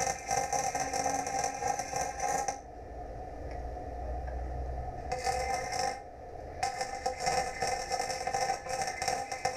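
Electric welding arc crackling and buzzing in runs of a few seconds. It stops for about two and a half seconds a few seconds in, then stops again briefly about six seconds in.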